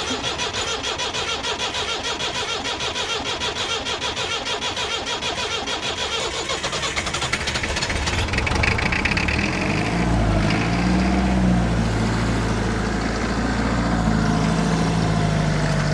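Perkins 4203 four-cylinder diesel engine of a 1962 Lansing Bagnall forklift turning over on the starter with a fast, even chug for about eight seconds, then catching. It runs up unevenly for a moment and settles into a steady idle.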